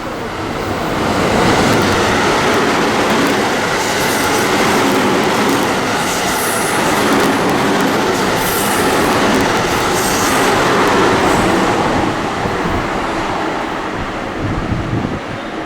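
Train passing through the station at speed without stopping: a loud rush of wheel and rail noise that builds over about a second, holds, and fades over the last few seconds, with wheel clatter over the rail joints.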